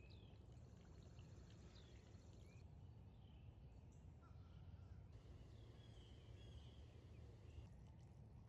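Faint birds chirping, with scattered short calls over a low steady rumble of background noise.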